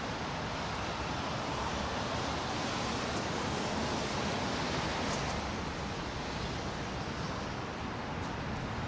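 Steady outdoor ambience of a snowy city street: an even, unbroken hiss with no distinct events.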